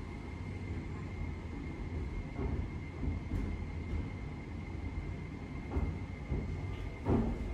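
Tobu SPACIA X electric limited express heard from inside the car as it pulls out of a station and gathers speed: a steady low rumble with a thin, steady high whine, and a few soft knocks in the second half.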